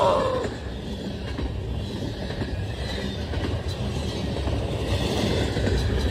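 CSX double-stack intermodal freight train passing at speed: a steady rumble of steel wheels on the rails, with occasional clacks as the well-car trucks roll over the track. A short, louder sound comes right at the start.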